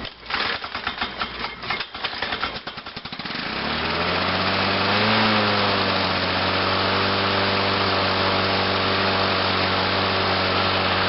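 Lawn-Boy 8461 lawn mower engine cold-started on choke: it fires unevenly in quickening strokes for about three seconds, then catches and settles into a steady run with a brief rise in speed. It starts readily after its spark plug was cleaned, having been hard starting.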